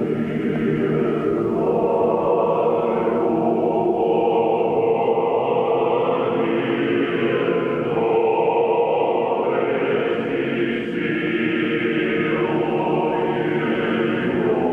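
Church choir singing a slow chant, many voices holding long sustained notes.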